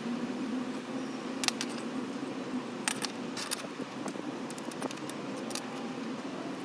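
Light metallic clinks and clicks of metal parts and tools being handled, half a dozen sharp ticks spread irregularly over a faint steady hum.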